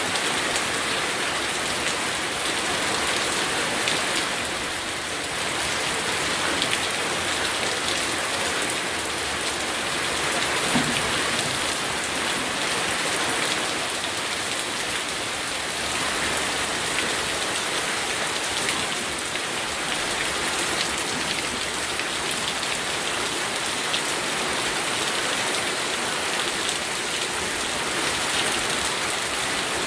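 Steady rain falling on a surface: a dense even hiss with many small drop ticks through it.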